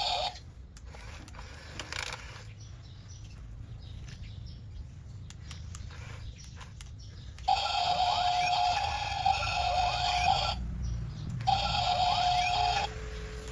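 Small electric motor whining steadily in bursts of about three seconds and about one second, each starting and stopping abruptly, after several seconds of low rumble with scattered clicks.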